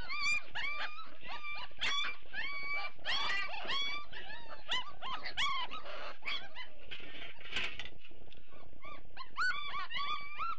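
A litter of Great Dane puppies whining and crying, many short high-pitched rising calls overlapping one another without a break, as hungry pups wait to be fed.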